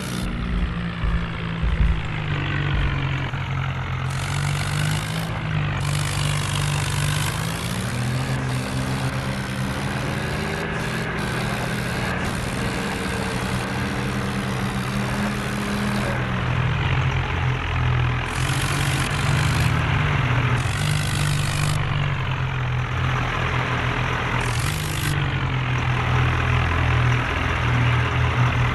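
Diesel tractor engine running steadily, its pitch rising about eight seconds in and dropping back about sixteen seconds in.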